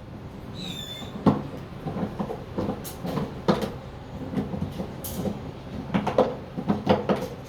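Scattered light clicks and knocks of something being handled, with one short high bird chirp about half a second in.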